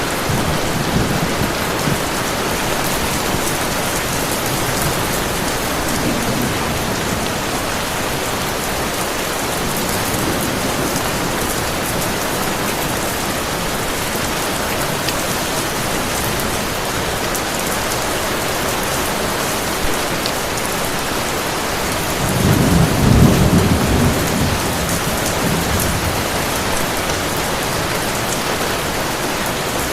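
Steady heavy rain, with a low roll of thunder rising and fading a little over two-thirds of the way through.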